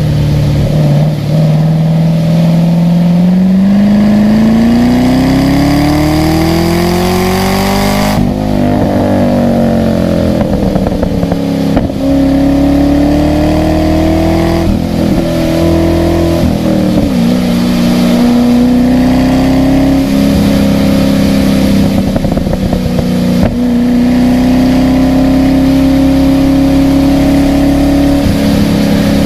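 A car's engine under load on a race track. The revs climb for several seconds and then fall sharply several times, at gear changes and lifts off the throttle.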